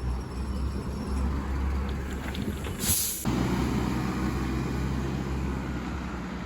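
Alexander Dennis Enviro200 MMC single-decker bus with its diesel engine running, a short sharp hiss of compressed air about three seconds in, after which the engine drones steadily at idle; another air hiss starts right at the end.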